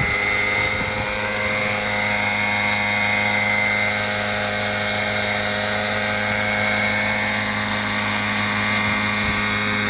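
Raptor 50 model helicopter with a four-stroke engine, running at a steady speed: a constant drone of engine and rotors with a high whine over it.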